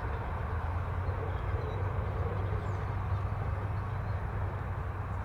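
Jet airliner taking off some distance away, a steady low rumble of its engines.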